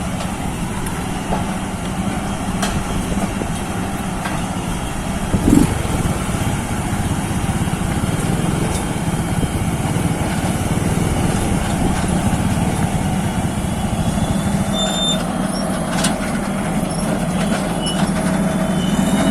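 Heavy vehicle engine running steadily, with a brief swell about five and a half seconds in.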